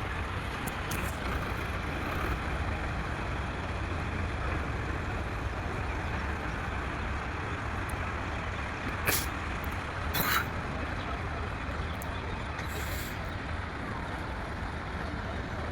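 A tractor's engine running steadily with a low drone. About nine seconds in come two short, sharp noises roughly a second apart, the second a little longer.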